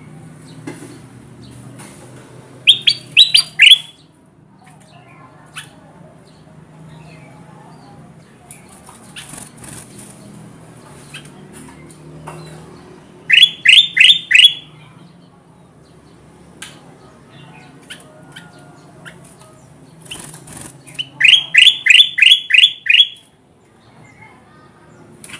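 Kutilang emas bulbul singing three bursts of quick, loud, falling whistled notes: about four notes near the start, five in the middle and about eight near the end. A low steady hum and faint clicks sit underneath.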